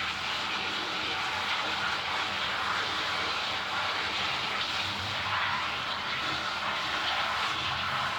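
Steady hiss of water spraying from a shower or hose nozzle while a dog is rinsed.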